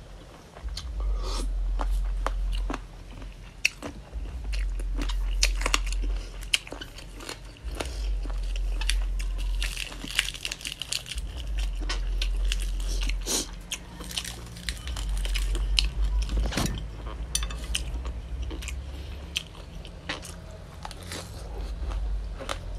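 Close-up chewing and crunching as a person eats a spicy chicken-feet salad with raw vegetables: many crisp bites and wet mouth sounds, over a steady low rumble.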